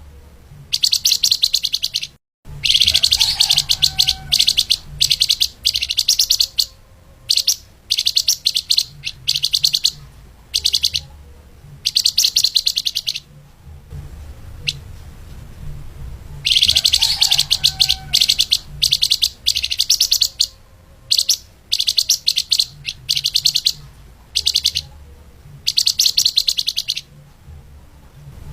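Flamboyan (lemahan) songbird singing fast, tightly packed high-pitched trills in repeated bursts, some lasting a few seconds and others brief, with short pauses between them. A steady low hum runs underneath.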